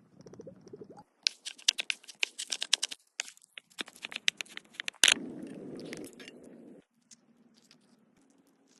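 Crunching and scraping from handling and cutting food by hand: a quick, irregular run of sharp clicks for a few seconds, then one louder knock about five seconds in and a short rustle before it goes quiet.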